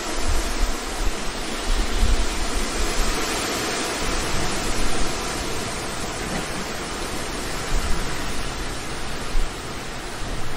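Steady rushing noise, with uneven low rumbles coming and going underneath.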